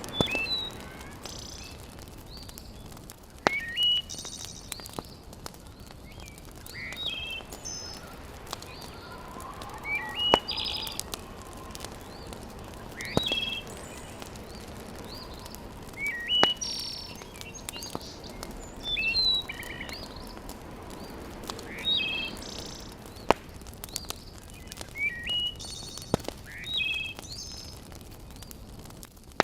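Birds chirping in short repeated phrases, with a few single sharp pops from a crackling wood fire every few seconds over a faint steady hiss.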